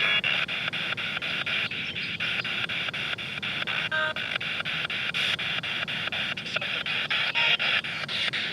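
Spirit box sweeping through radio stations: a steady hiss of radio static chopped by rapid clicks about five times a second, with brief snatches of broadcast sound near the start and about four seconds in.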